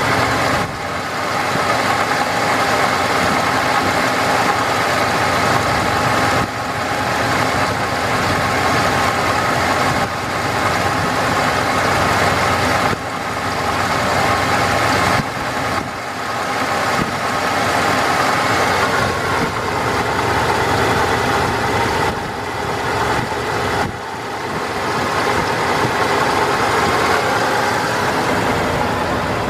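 1989 Ford F-250 dually pickup's engine idling steadily, with brief dips in level every few seconds.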